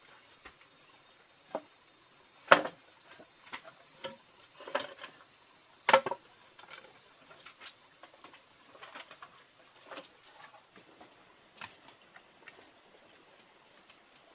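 Scattered light knocks and clicks at an uneven pace, with two sharper, louder knocks about two and a half and six seconds in.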